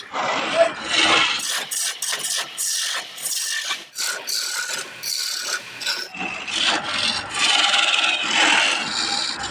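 Wood being worked by hand, with rough, irregular rasping and scraping strokes against the grain. The sound turns thinner and higher for a few seconds in the middle.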